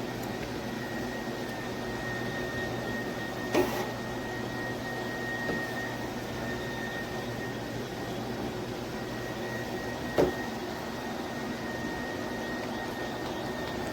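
Cordless dual-motor electric spin mop running with a steady motor hum and a thin high whine, with two short sharp knocks, one a few seconds in and another about ten seconds in.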